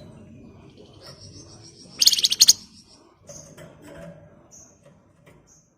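Flamboyan songbird giving one loud, rapid, buzzy trill of fast-repeated high notes about two seconds in, lasting about half a second. A few short, high chirps follow near the end.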